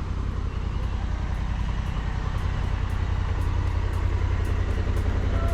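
Steady low rumble of a motorcycle on the move, with engine and road noise and no sudden events.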